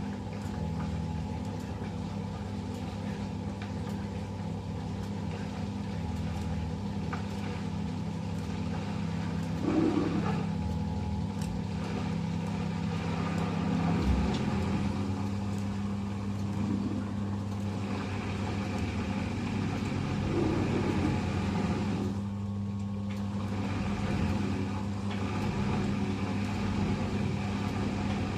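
Eudora 38 Super washing machine running: a steady motor hum that changes its tone about halfway through, with a few brief knocks.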